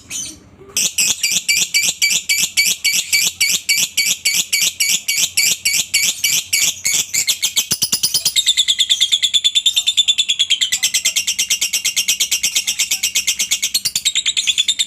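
Lovebird ngekek: a long, fast run of sharp, high chattering notes, about seven a second, that quickens slightly about halfway through.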